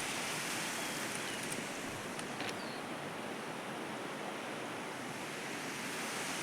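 Steady outdoor rushing noise, even and unchanging, with a few faint short chirps and ticks.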